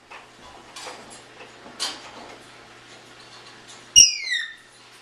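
African grey parrot giving a sharp click followed by a short falling whistle, its answer when asked to bark like a dog. Two soft rustles come before it.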